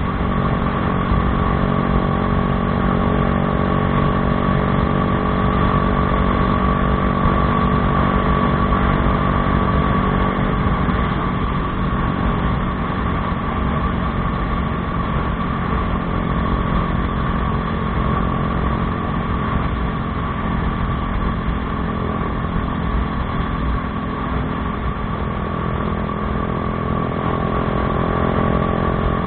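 Bajaj Dominar 400's single-cylinder engine running through an aftermarket Akrapovič exhaust at a steady, unchanging engine speed, without revving.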